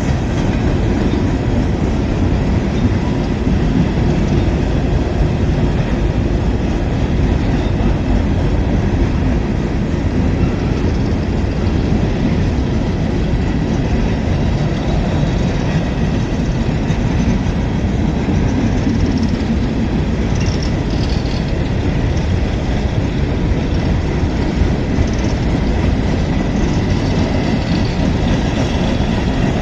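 A train's railroad cars rolling past on the track, a steady loud rumble of wheels on rail that does not let up.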